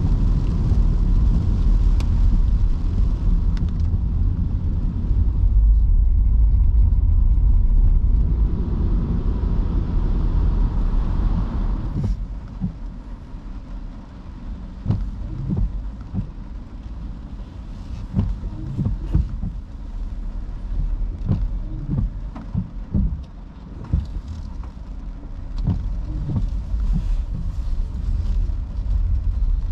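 A car driving in heavy rain: a steady low road rumble for about the first twelve seconds, then a quieter stretch with scattered irregular low knocks.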